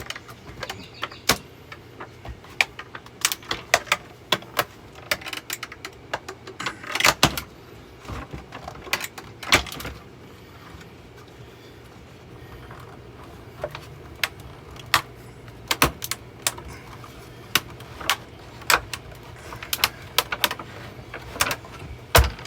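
Irregular clicks, knocks and rattles of a Hoover vacuum cleaner's parts being pushed and wrenched in an effort to break it apart, with a pause of a few seconds about halfway.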